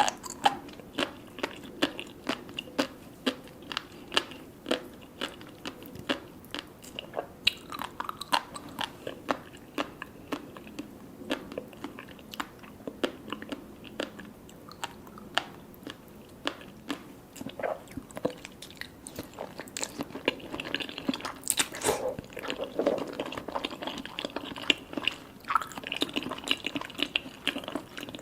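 Close-miked chewing with many small, sharp pops and crunches, several a second: the eater biting into sea grapes and tobiko roe with soft salmon sashimi.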